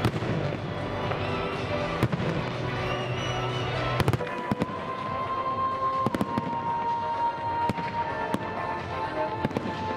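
Fireworks going off in a large display, sharp bangs and crackles every couple of seconds, the loudest about four seconds in, with music playing alongside.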